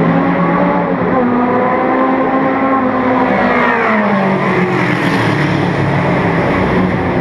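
1950s sports racing cars' engines running at speed; about four seconds in, one car passes and its engine note falls sharply as it goes by, while other engines keep running.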